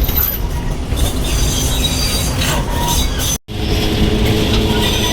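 Steady low rumble with thin high-pitched squeals above it, broken by a brief dropout about three and a half seconds in.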